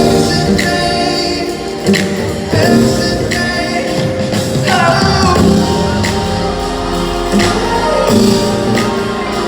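Live pop concert music: a band playing with singing over a steady drumbeat.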